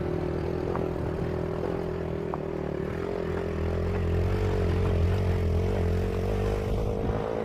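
Motorcycle engine running steadily while riding, with a low rumble and a slightly wavering pitch.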